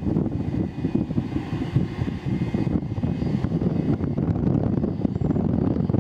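Low, steady rumble of aircraft engines at an airport, with wind buffeting the microphone.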